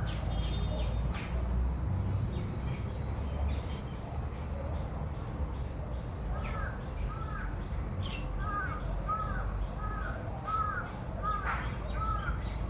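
A bird calling a quick series of short arching notes, about two a second, starting about halfway through, over a steady low rumble.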